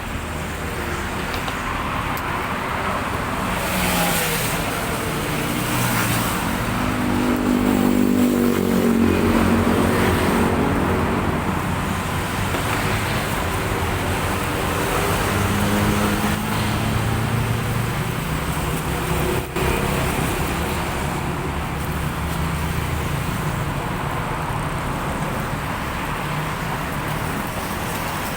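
Road traffic going by, a steady low rumble with a vehicle engine passing loudest about eight to ten seconds in and another passing around sixteen seconds in.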